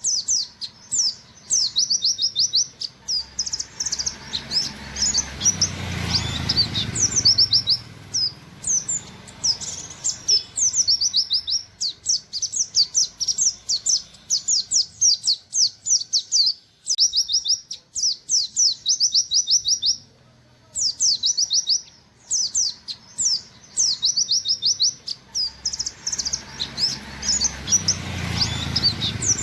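Pleci buxtoni white-eye singing its fast 'nembak' song: rapid runs of thin, high, down-slurred 'wit wit' notes in bursts with short pauses between them.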